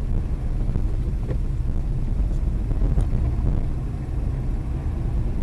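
A car driving, with a steady low rumble of engine and road noise and a couple of faint ticks.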